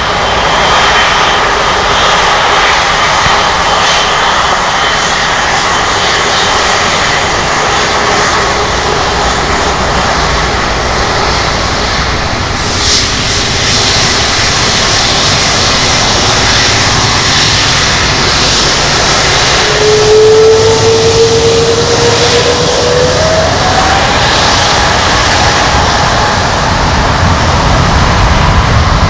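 Jet airliner engines running loud and steady, with a whine that comes in about two-thirds through and climbs in pitch.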